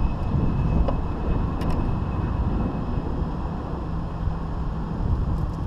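Steady low engine rumble, with a couple of light clicks in the first two seconds.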